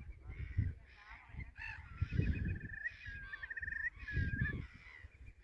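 Several birds calling: a run of repeated harsh, honking calls, and a thin high trill from a second bird about three seconds in, over intermittent low rumble.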